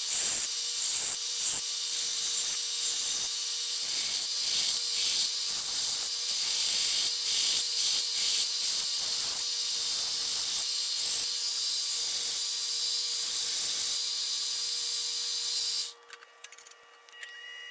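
Workshop hand-tool work on a workpiece: rhythmic scraping or abrasive strokes, about one to two a second, over a steady hiss, stopping near the end.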